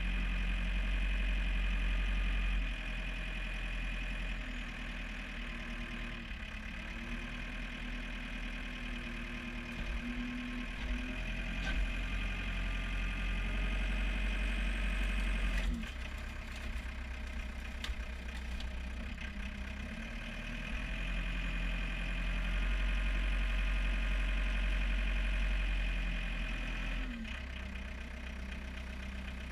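John Deere 4720 compact tractor's four-cylinder diesel engine running, its speed and load shifting up and down several times as the loader works.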